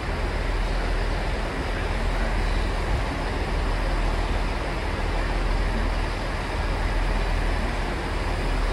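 Diesel train running in the station, a steady low rumble with hiss and no distinct events, as a multiple unit pulls out.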